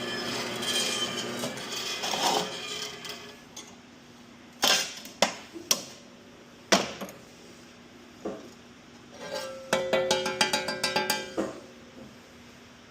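Stainless steel exhaust tubing is being cut for the first few seconds, a continuous scraping noise. Then come single sharp metal knocks, and near the end a quick run of clanks and clinks with a brief metallic ring as the steel pieces are handled.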